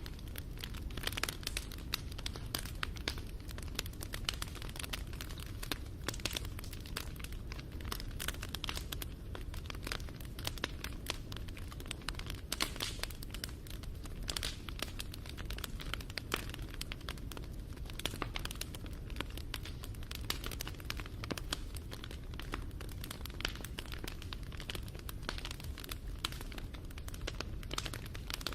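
Wood fire crackling: a dense run of irregular sharp pops and snaps over a steady low rumble of burning.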